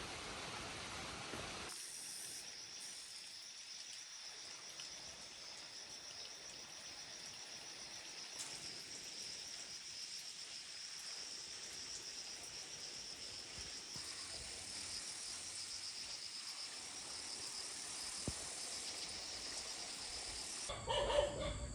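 Insects chirring in a steady high-pitched drone. In the first couple of seconds it sits under a rustling hiss, and just before the end a voice or animal call comes in.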